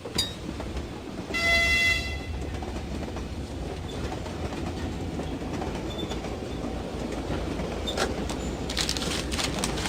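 Inside a moving passenger train carriage: a steady low rumble of the car on the rails, broken about a second and a half in by a short, high toot of a train horn lasting under a second, with a few sharp clicks near the end.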